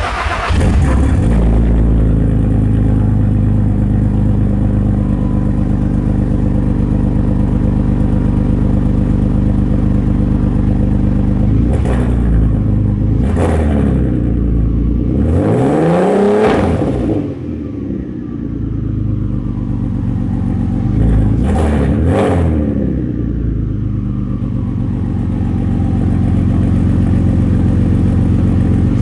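Turbocharged VR6 engine of an Audi A3 3.2 catching on a cold start and settling into a steady fast idle. It is blipped a few times, with one longer rev that rises and falls about halfway through and two quick revs a few seconds later.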